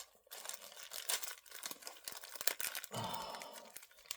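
Small plastic bag crinkling and crackling as it is handled and opened to take out a doll accessory, a quick irregular run of crackles.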